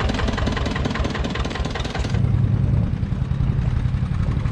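Fishing boat engine running steadily with a dense rapid firing rhythm and a strong low drone. About two seconds in, the high hiss falls away and the low drone becomes stronger.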